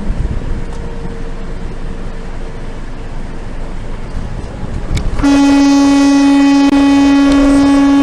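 Steady road and driving noise, then a vehicle horn sounds about five seconds in: one loud, single-pitched blast held steadily for about three and a half seconds.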